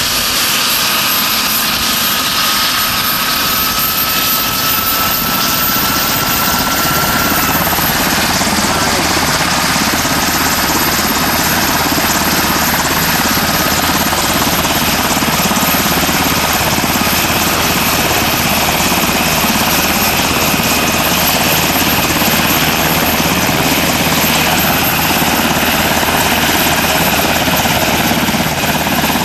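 UH-60 Black Hawk helicopter running during startup, its twin turbine engines giving a loud, steady roar. A whine rises slowly in pitch and shifts slightly about seven seconds in, then holds steady under an even low beat from the rotors.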